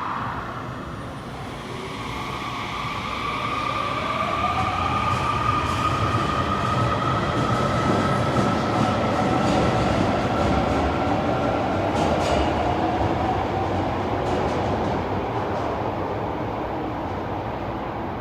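Osaka Metro Sakaisuji Line subway train running through an underground station, a steady rumble with electric motor whine; a few seconds in, one whine rises in pitch. The sound swells to its loudest in the middle and eases a little near the end.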